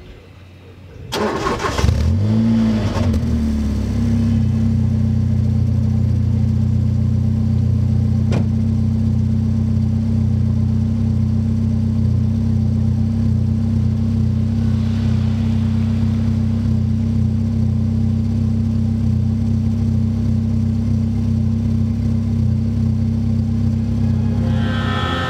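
Kia Elan's 1.8-litre TSD four-cylinder engine is cranked by the starter about a second in. It catches with a brief rev flare, then settles into a steady idle, heard close to the exhaust tailpipe.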